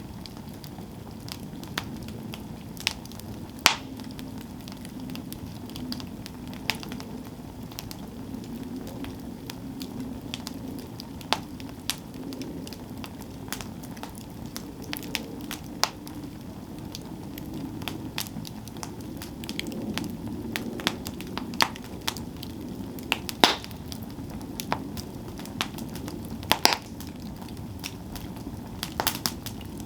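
Campfire burning: irregular sharp pops and crackles of the burning wood, some louder snaps among them, over a steady low rush of the flames.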